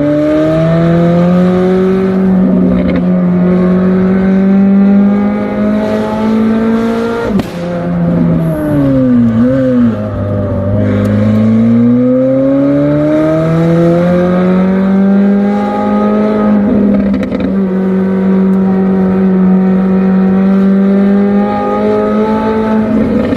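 McLaren 765LT twin-turbo V8 running hard through the bends, its pitch climbing and easing. About seven seconds in the revs fall suddenly with a brief sharp crack, then dip and wobble before building up again.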